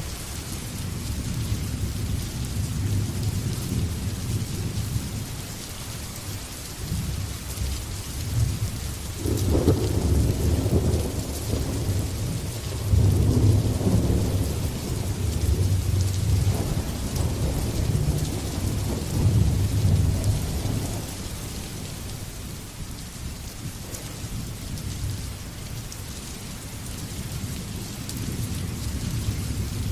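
Thunderstorm: steady rain hiss with rolling thunder. A thunderclap comes about nine seconds in and rumbles on in waves for some ten seconds before dying down, and the rumble builds again near the end.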